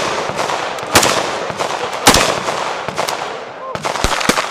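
Semi-automatic gunfire on a busy range: single shots, two loud ones about a second apart, then more shots near the end, with fainter shots from other guns firing throughout.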